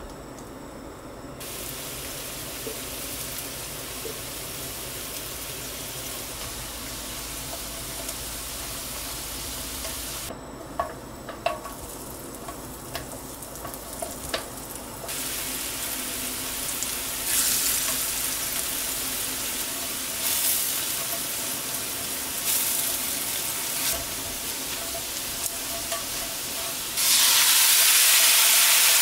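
Floured sweet potato and lotus root slices pan-frying in oil, a steady sizzle, with a few light clicks partway through as slices are set down in the pan. Near the end the sizzle turns suddenly louder and harsher as braising sauce goes into the hot pan.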